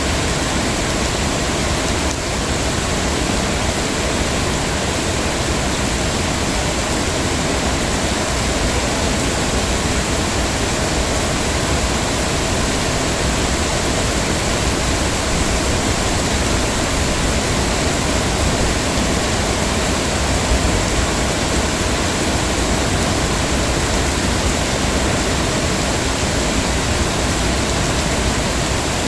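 Heavy rain falling steadily, a dense even hiss with no breaks or distinct drops standing out.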